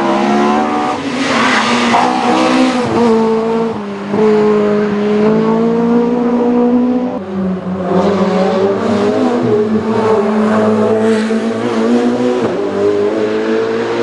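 Race car engine running hard at high revs, its pitch dropping sharply and climbing again several times.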